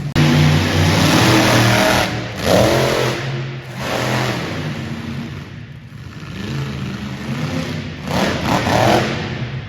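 Monster truck engine revving in bursts: loud throttle blips at the start, another about two and a half seconds in, and again near the end, with the engine idling lower in between.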